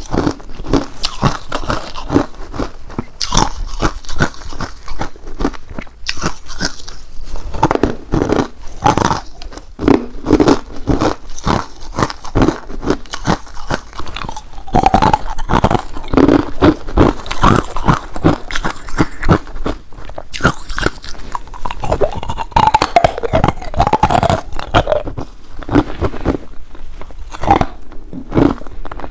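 Ice being bitten and chewed close to the microphone: a dense run of sharp crunches following one another quickly.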